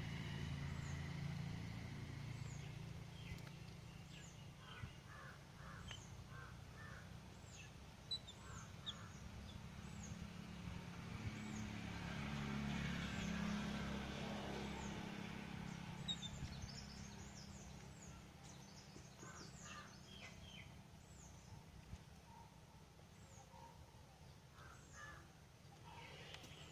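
Birds calling and chirping, with many short high chirps and some harsher repeated calls, over a low traffic rumble; a vehicle passes, louder around the middle.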